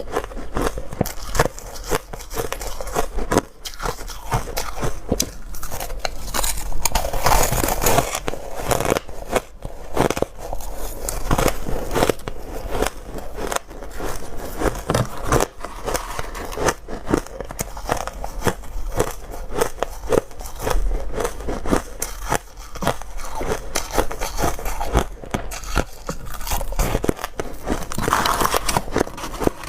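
Dry, crunchy ice being bitten and chewed: a continuous run of sharp crunches and cracks.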